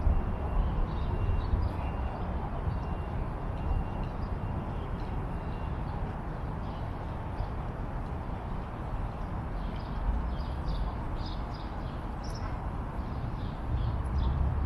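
Birds chirping outdoors over a steady low rumble and hiss. A repeated high note sounds in the first half, and the chirps grow busier near the end.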